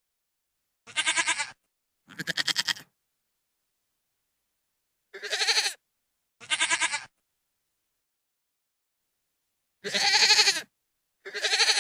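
A goat bleating loudly, six quavering calls in three pairs, each under a second long, the last cut off at the end.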